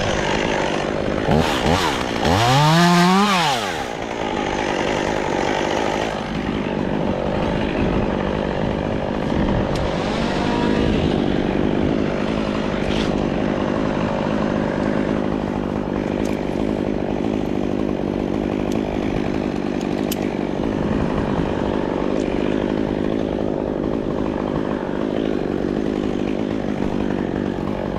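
Two-stroke chainsaw revving up and falling back about two seconds in, then running at a steady speed.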